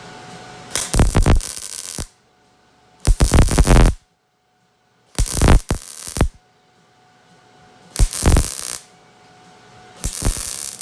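Welder laying five short welds on thin sheet-metal panel, each arc lasting about a second and starting and stopping abruptly, with short pauses between. One weld burns through the sheet metal.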